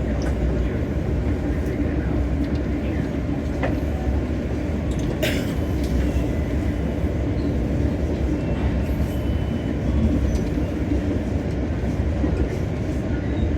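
Passenger train running, heard from inside the coach: a steady low rumble with a few faint clicks, and a brief hiss about five seconds in.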